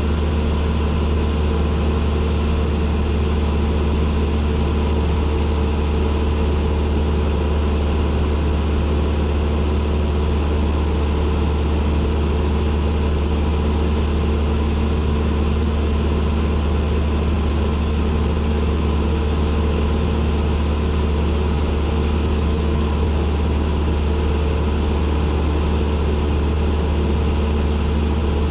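Cessna 172N's piston engine and propeller droning steadily inside the cabin, a constant low hum with a rushing noise over it and no change in speed.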